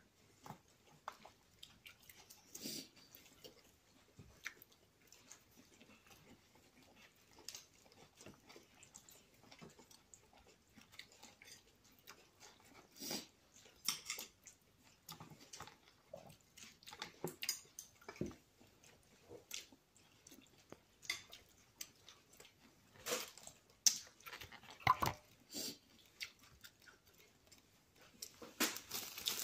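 Close-up chewing of green salad, with irregular clicks and scrapes of a fork against a glass bowl. Near the end a plastic bag starts to rustle.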